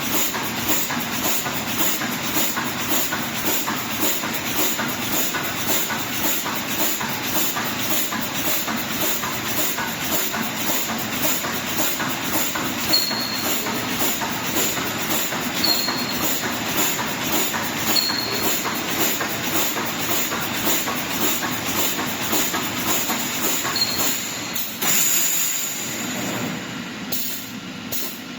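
Automatic wire mesh welding machine running, with a fast, even clatter of repeated weld strokes and hiss. Near the end the rhythm stops and the sound drops to a quieter, uneven noise.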